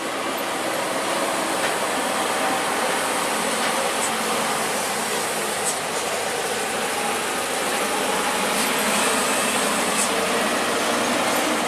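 Heavy truck engine running with steady road noise, growing slightly louder toward the end.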